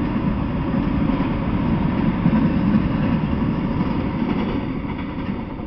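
Freight train of autorack cars rolling past, a steady rumble of steel wheels on the rails that fades as the last car goes by near the end.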